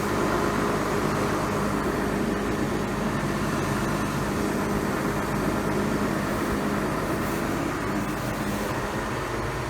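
Tractor-driven straw bedding machine running steadily as it blows straw out as bedding, a constant mechanical hum with a steady drone.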